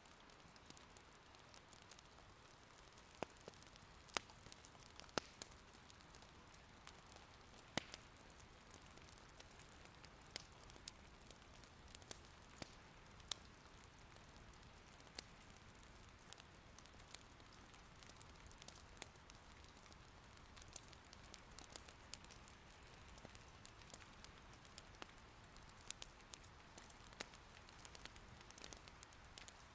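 Soft, steady rain with scattered sharp pops and crackles from firewood burning in an irori hearth, all faint.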